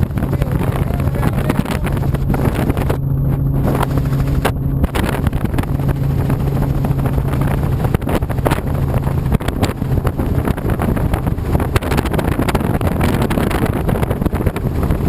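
Helicopter engine and rotor noise in flight, heard from inside the cabin: a loud, steady drone with a steady low hum underneath.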